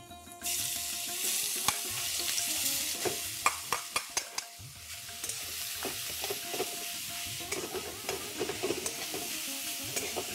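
Grated bottle gourd sizzling as it goes into hot ghee in a metal pan, starting suddenly about half a second in. It is stirred with a metal spatula that clicks and scrapes against the pan.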